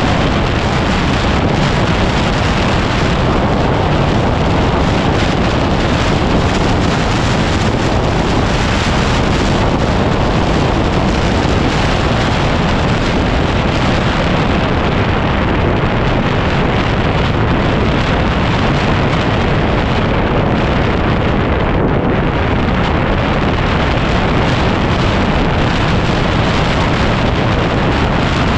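Heavy, steady wind noise buffeting the microphone of a moving 2010 Yamaha WR250R trail motorcycle, its single-cylinder engine running under the wind.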